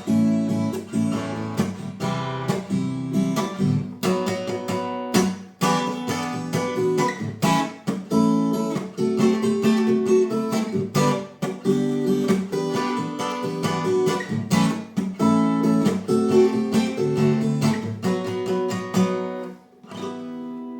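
Acoustic guitar strumming chords in a steady rhythm as the song's instrumental ending, with a final chord ringing out near the end.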